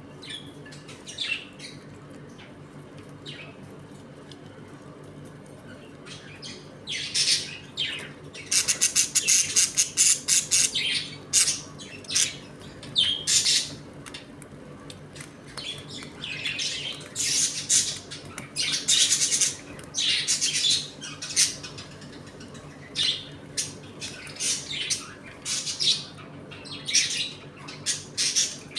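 A flock of budgerigars chattering, chirping and squawking, sparse at first and then busy and loud from about seven seconds in.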